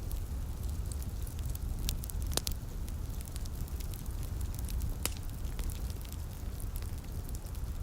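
Wood fire in a fireplace crackling, with irregular sharp pops, two louder ones about two and a half and five seconds in, over a steady low rumble.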